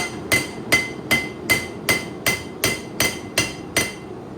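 Forging hammer striking a hot 8670 high-carbon steel knife blade on the anvil in a steady run of about eleven light, evenly spaced blows, each with a short metallic ring, stopping near the end. The blows are gentle smoothing strikes to even out the blade's surface, not hard shaping blows.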